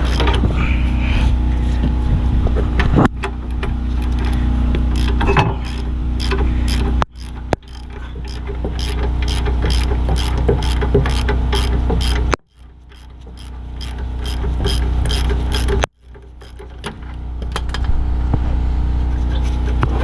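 Ratchet wrench clicking as a rear brake caliper bracket bolt is worked loose and backed out, with a steady low hum underneath. The sound breaks off abruptly a few times.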